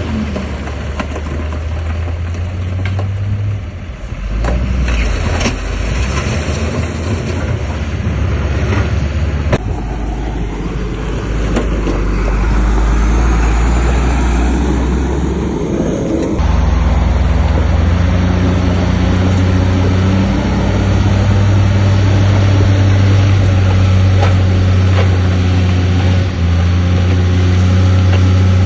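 Heavy diesel engines of earthmoving machinery, a bulldozer and dump trucks, running under load. The engine note changes several times, rising in pitch for a few seconds before dropping back about halfway through, then settles into a steady, louder drone, with a few sharp clanks early on.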